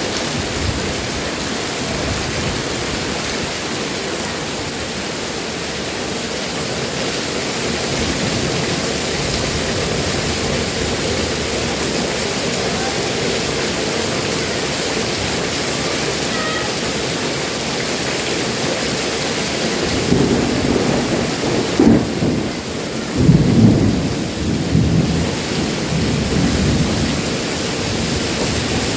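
Heavy rain falling steadily, with several loud rolls of thunder rumbling and cracking about two-thirds of the way through.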